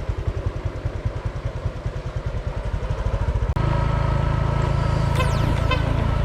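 Motorcycle engine running while riding, a pulsing low drone that cuts abruptly about halfway through to a steadier, slightly louder drone.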